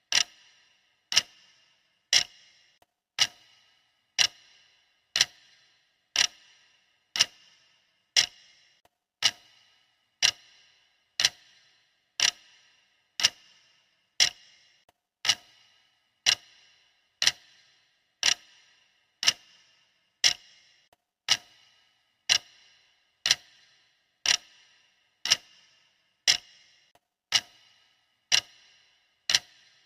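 Clock ticking steadily, one sharp tick a second, each with a brief metallic ring.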